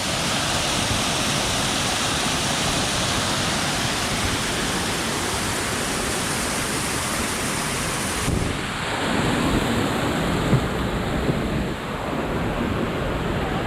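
Steady rushing of a waterfall, the noise of falling water with no pitch to it; about eight seconds in it abruptly turns duller.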